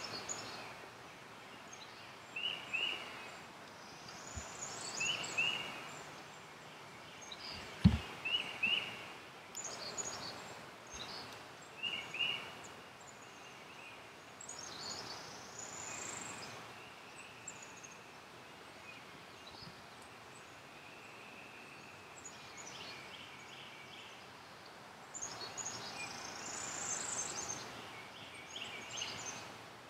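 Wild birds calling in the woods: short chirping notes repeated every couple of seconds, and higher, quick sweeping phrases now and then. A single sharp click comes about eight seconds in.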